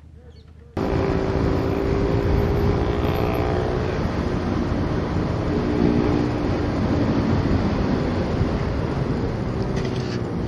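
Motorcycle riding at speed: the engine's running note under heavy wind noise on the microphone. It cuts in suddenly about a second in.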